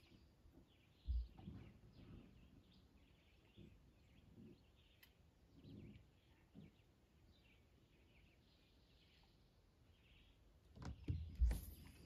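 Faint bird chirps and calls scattered through a quiet lakeside ambience. There is a low thump about a second in, and a cluster of clicks and knocks with another low thump near the end.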